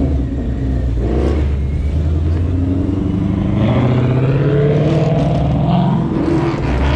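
Car engine running with a low, steady rumble; about three seconds in it revs up slowly, then falls back near the end.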